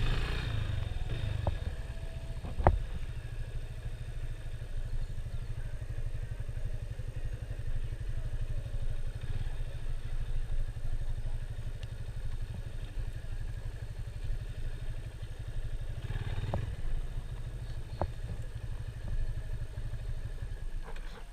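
Motorcycle engine running steadily on the move, with a single sharp knock a little under three seconds in.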